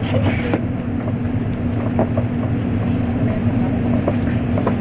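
Cabin noise inside an N700 series Shinkansen passenger car: a steady low rumble with a constant hum and a few faint clicks.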